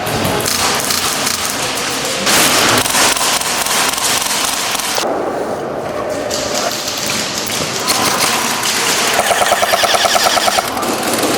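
Airsoft guns firing full-auto bursts in close quarters, with a fast, evenly spaced rattling burst of about a second and a half near the end.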